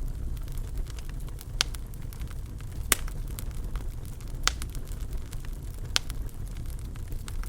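Fireplace fire crackling over a steady low rumble, with many small crackles and four sharp, louder pops spaced about a second and a half apart.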